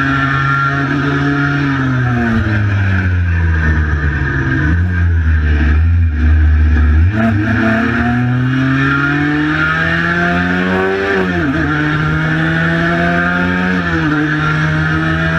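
Cagiva Mito 125's single-cylinder two-stroke engine under way: the engine note falls as the bike slows for the first few seconds, then climbs steadily under acceleration, with a quick dip and recovery at a gear change about eleven seconds in.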